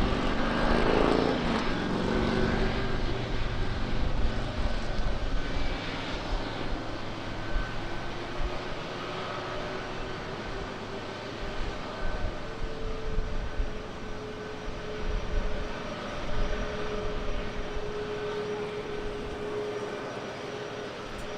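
Jet airliner engines at takeoff thrust. The roar is loudest at the start, with a pitch that drops over the first couple of seconds as the aircraft passes, then it fades steadily as it climbs away.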